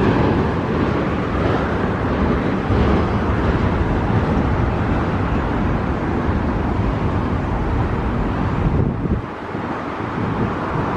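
Canadian Pacific double-stack container freight cars rolling past on the rails: a steady rumble of steel wheels on track that eases briefly about nine seconds in.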